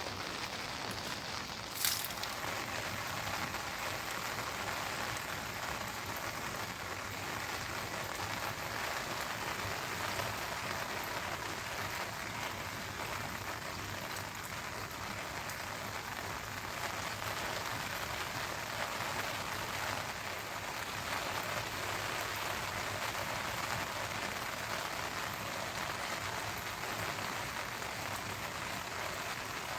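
Steady rain falling and pattering on surfaces, with one short sharp knock about two seconds in.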